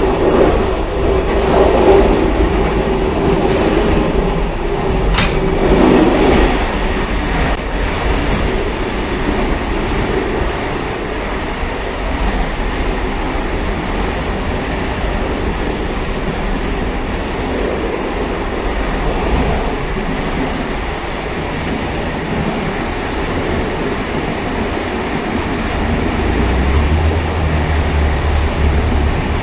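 Railcar running on the rails: a continuous rumble of wheels and running gear, with a sharp click about five seconds in and a low hum coming in near the end.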